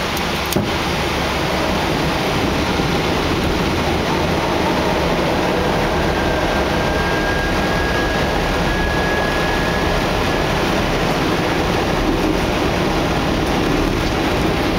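Steady rush of airflow and engine noise on an Airbus A319 flight deck during approach. There is a short click about half a second in and a faint, high, steady tone for about five seconds in the middle.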